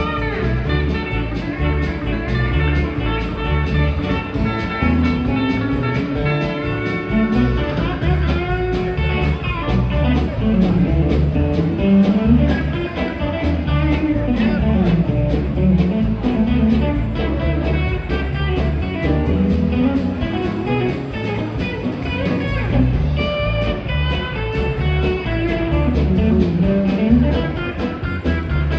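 Live band playing an instrumental break: a guitar lead over a steady, rhythmic bass line.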